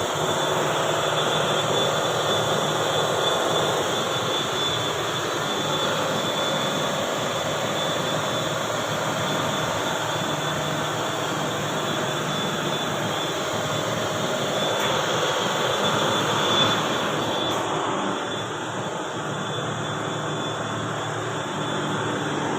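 Ship's main diesel engine running steadily, a loud, continuous mechanical noise, slightly quieter for the last few seconds.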